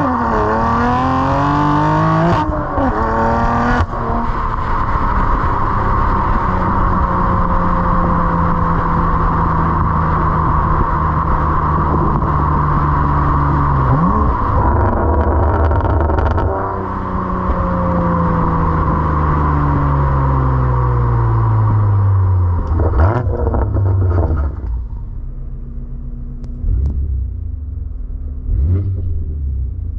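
BMW M2 Competition's twin-turbo inline-six through an Active Autowerke equal length midpipe and axle-back exhaust, without downpipes: revving up at the start, then two long stretches where the engine note falls as the car slows, with a gear change around halfway. It settles to a quieter, lower steady note near the end.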